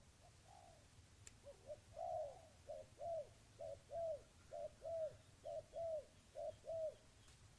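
Spotted dove cooing: a phrase of soft, arched coos, mostly in short-then-long pairs, about five pairs at a little under a second apart, starting about a second and a half in and stopping near the end.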